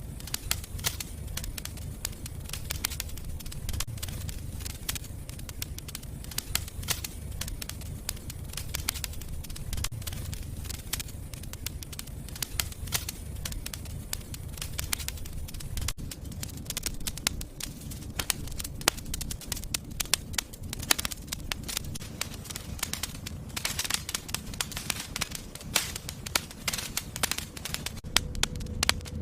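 A fire burning in a fireplace, crackling with dense, irregular pops over a low steady rumble. The crackling grows busier near the end.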